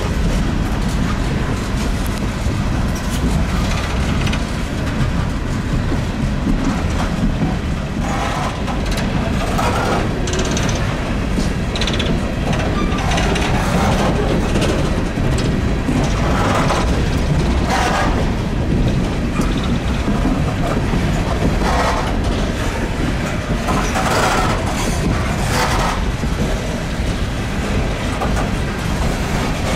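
A train's cars rolling past with a steady heavy rumble and the clickety-clack of wheels over rail joints. Short, higher-pitched wheel squeals come and go through the middle.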